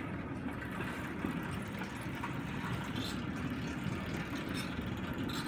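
Rail bike's steel wheels rolling slowly along the railroad track: a steady low rumble with a few faint clicks.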